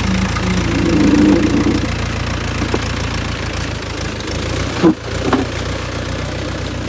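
Tractor engine running steadily at idle, with a single sharp knock about five seconds in.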